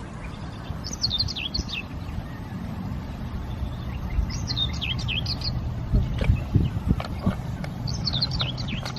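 A songbird sings a short phrase of quick, falling notes three times, a few seconds apart, over a steady low rumble.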